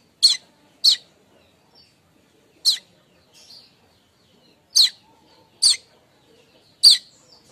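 Streaked weaver giving short, sharp chirps, six in all at uneven gaps of about half a second to two seconds. This is the chattering call used to lure wild weavers.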